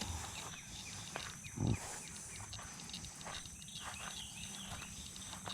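Faint woodland ambience: a steady high-pitched insect drone with scattered small chirps, and a soft thump about a second and a half in.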